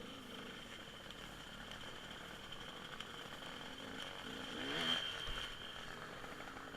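Faint dirt bike engine running, revving up briefly about five seconds in.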